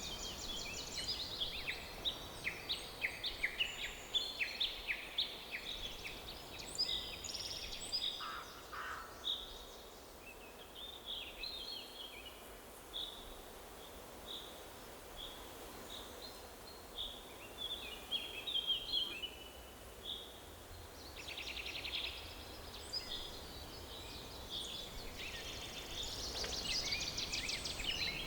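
Forest birds singing: many overlapping chirps and trills, busy at the start and again near the end, thinner in the middle, over a faint low background noise.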